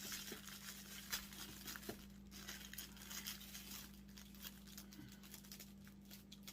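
Faint crinkling and rustling of packaging being handled, a scatter of small irregular clicks, over a steady low electrical hum.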